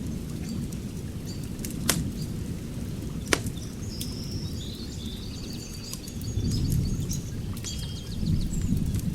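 Wood fire crackling, with two sharp pops about two and three seconds in, over a steady low rumble. Birds chirp in high short calls from about four seconds in and again near the end.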